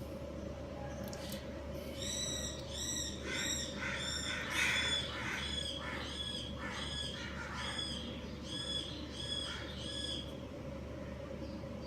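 Budgerigars chirping: a run of repeated high chirps, about two a second for some eight seconds, with softer chattering beneath them midway. A steady low hum runs underneath.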